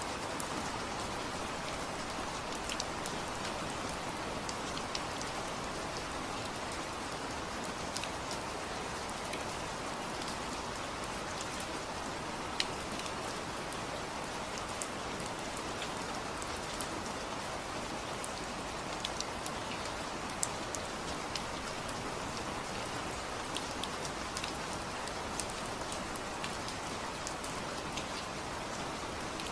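Steady rain falling, a continuous patter with many separate drops ticking sharply on a hard surface nearby.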